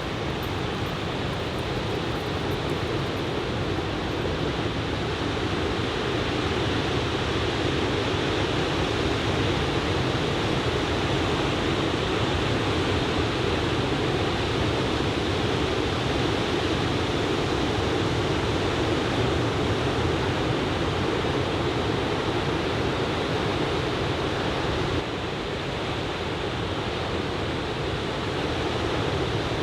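Steady rush of ocean surf breaking on a sandy beach, from a typhoon-driven swell. It dips slightly in level about 25 seconds in.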